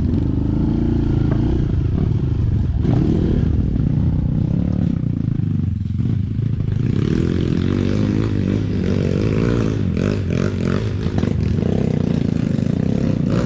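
Trail motorcycle engine running with the throttle rising and falling, with clattering and scraping from the bike over rough ground, busier in the second half.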